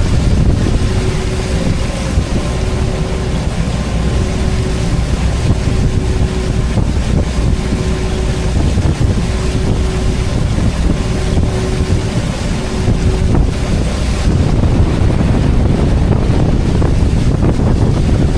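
A tour boat's engine running steadily under way, with wind buffeting the microphone; a faint steady hum comes and goes through the first part.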